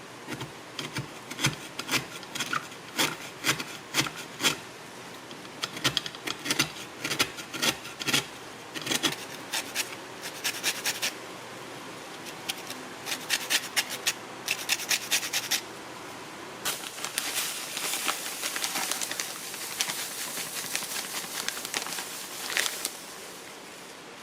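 Repeated scraping strokes, about two a second in short runs with pauses, turning into a denser, continuous scraping near the end.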